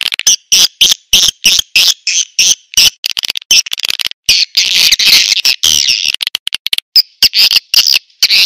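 Recorded swiftlet calls, the lure sound played to draw swiftlets to nest in a swiftlet house: rapid, high chirps and short twittering trills following one another with brief gaps.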